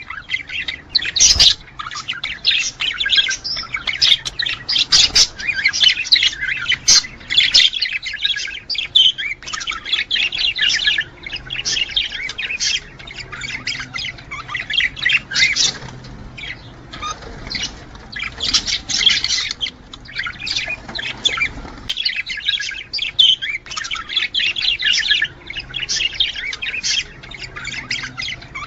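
Budgerigars chattering and warbling continuously: rapid chirps, squawks and warbles of the kind males give in courtship.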